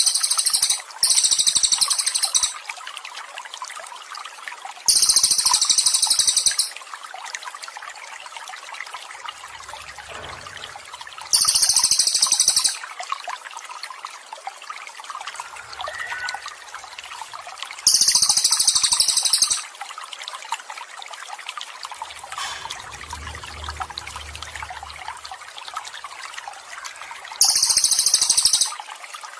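Water trickling steadily, with a songbird's high, rapid trill of about a second and a half repeated five times at uneven gaps of several seconds.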